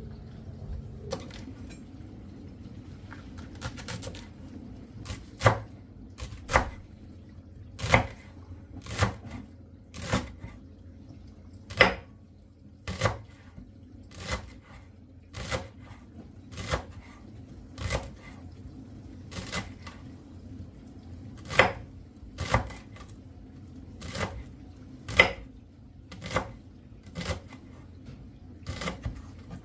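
Knife chopping on a cutting board in slow, even strokes, about one a second.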